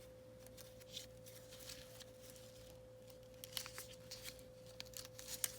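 Faint rustling and small clicks of paper being handled and fitted into a matchbook spine, coming more often in the second half, over a steady low hum.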